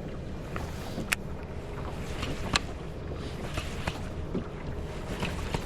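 Gusty wind buffeting the microphone as a steady low rumble, with a few short sharp clicks and taps scattered through it.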